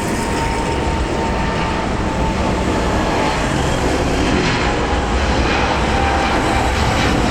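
Jet airliner passing close by, its engines making a loud, steady roar that slowly grows louder, with a faint whine that drifts slightly lower in pitch.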